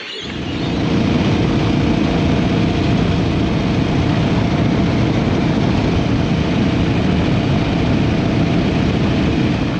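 Adventure motorcycle engine running steadily and loud, coming in abruptly just after the start.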